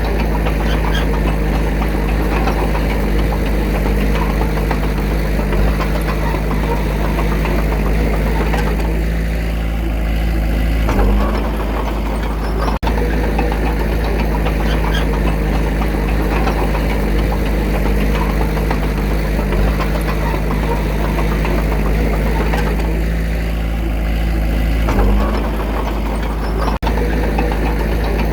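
Komatsu D21A crawler bulldozer's diesel engine running steadily at work, with a brief shift in engine note twice, about eleven and twenty-five seconds in.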